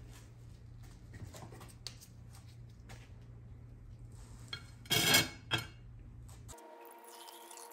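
Light clinks and scraping of a metal rod and twisted wire being shifted on the rim of a glass jar, with a louder double clatter about five seconds in.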